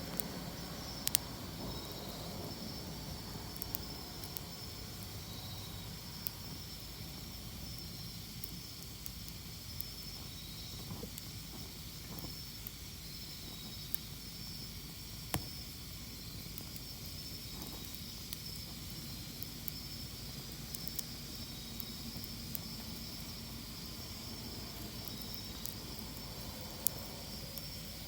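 Wood fire burning with a steady hiss and scattered sharp crackles and pops, a few of them louder than the rest.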